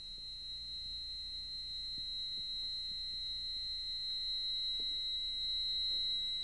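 A steady high-pitched electronic tone with a fainter tone an octave below, starting suddenly out of silence and slowly growing louder over a faint low hum.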